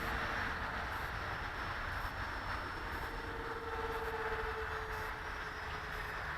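Electric ducted fans of a Dynam Cessna Citation 550 model jet running in flight: a steady rushing whoosh with faint whining tones that swell and drift slightly in pitch as the model moves.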